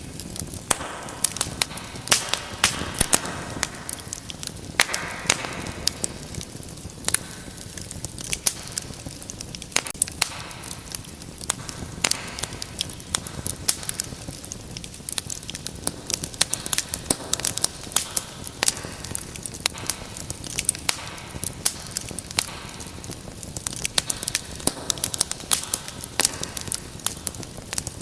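Wood fire burning, with dense, irregular crackles and pops over a steady hiss.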